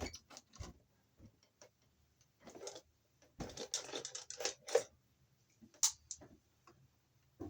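Scattered clicks and scratching of solid copper wires being handled at a junction box as a 14-gauge black hot wire is worked free of a push-in connector, busiest in the middle.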